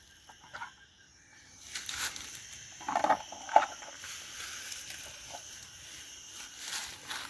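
Rustling and a few short crackly knocks of things being handled, over a faint steady high chirring of insects.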